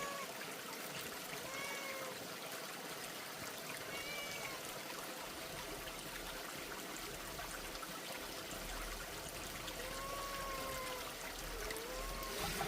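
Oil sizzling steadily in a pan as eggplant fries, a constant crackling hiss. A few short high-pitched calls come through over it, about four times.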